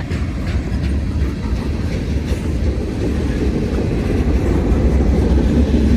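Freight train rolling past on the track: a steady low rumble of wheels on rails, growing slightly louder toward the end.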